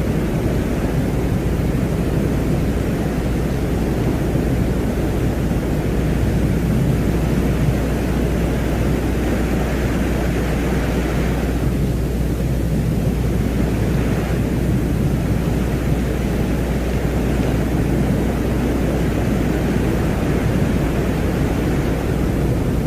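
Space-ambience drone presented as the sound of Venus: a continuous deep rushing noise with no pitch, with a higher hiss that swells and fades twice near the middle.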